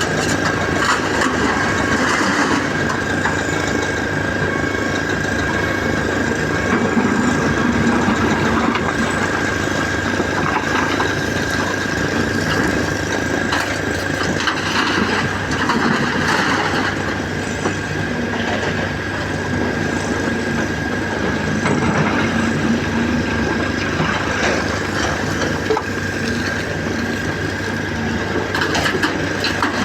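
Caterpillar 336 hydraulic excavator's diesel engine running at work, with a steady high whine over it and swells in loudness every few seconds.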